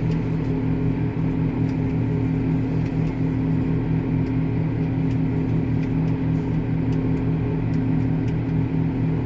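Vehicle engine running at a steady speed, a constant low drone that holds one pitch.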